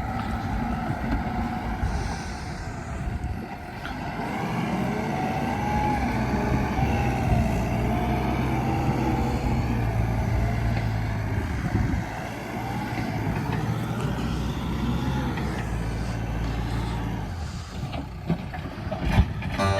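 Excavator working: its diesel engine runs steadily under load with a whine that wavers up and down, and a few short knocks near the end.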